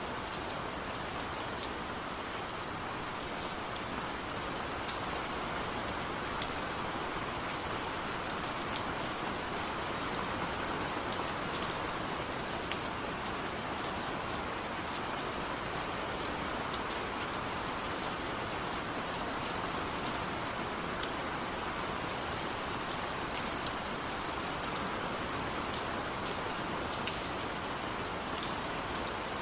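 Steady rain falling, an even hiss with many sharp single drop ticks scattered through it.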